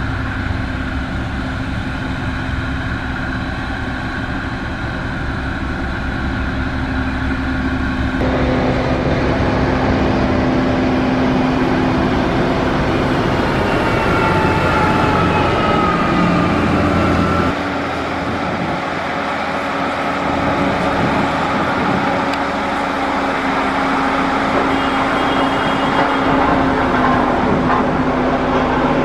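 Diesel engines of heavy road-construction machinery running under load, a steady hum with a low drone; the sound shifts abruptly twice, as between different machines or shots.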